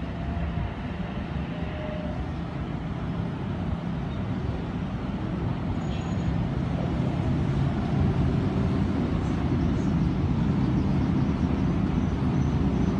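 Double-deck electric commuter train pulling into the platform, its rumble and motor hum growing steadily louder as it approaches and rolls past.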